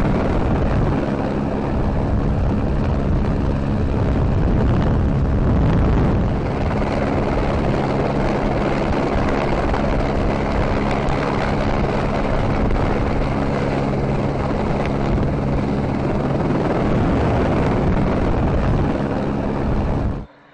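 Loud, steady engine drone with a constant low hum that holds one pitch, cutting off suddenly near the end.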